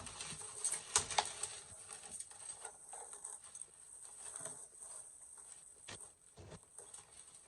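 Scattered light clicks, clinks and rustling as a broken glass jar and the small truck parts and debris inside it are handled, with a few sharper knocks, the loudest about a second in.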